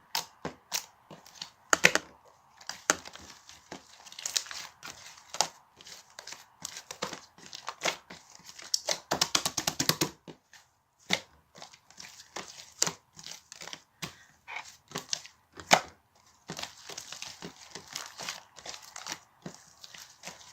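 White slime being worked by hand, giving irregular sharp pops and crackling clicks, with a dense run of quick crackles about nine seconds in.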